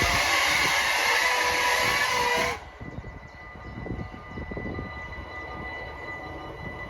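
A loud train passing for about two and a half seconds, ending abruptly. Then a level crossing's warning bells ringing steadily at a lower level.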